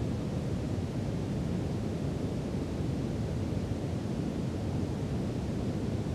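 Brown noise: a steady, even rumbling hiss weighted toward the low end, unchanging throughout.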